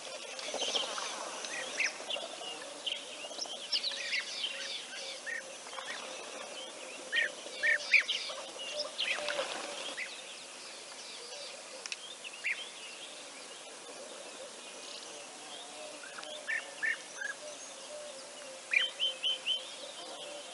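Wild birds calling, a mix of short sharp chirps and whistled notes from several birds. There is a busy stretch in the first half, a quieter spell in the middle, and a quick run of four or five notes near the end.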